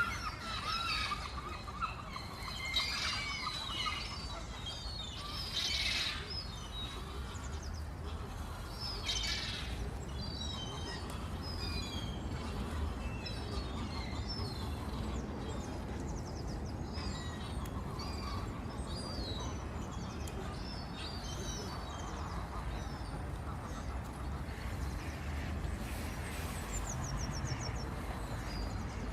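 Small birds chirping and calling, many short high chirps one after another, denser and louder in the first few seconds, over a steady low rumble.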